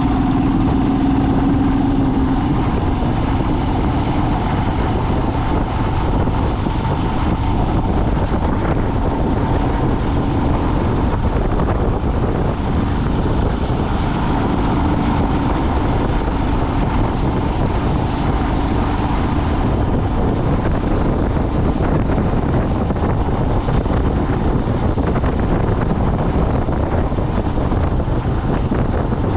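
A vehicle driving along a road: steady engine and road noise, with a faint engine hum that fades in and out and wind on the microphone.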